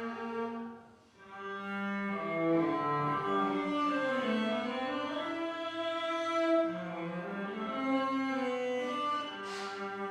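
Cello playing a slow hymn melody in long bowed notes, with a short break between phrases about a second in.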